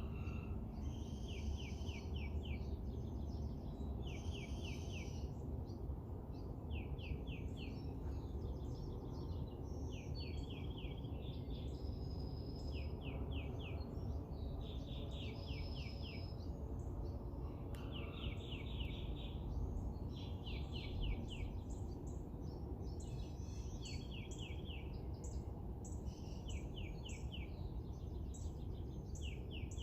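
Wild songbirds singing at dawn: one bird repeats a short phrase of five or six quick slurred notes every couple of seconds, and others add higher chirps between. A steady low rumble of background noise runs underneath.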